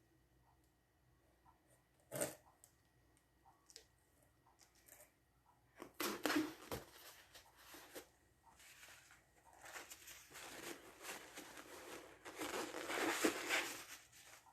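Handling noises: a single knock about two seconds in, then two stretches of rustling and scraping, from about six to eight seconds and from about nine seconds to near the end.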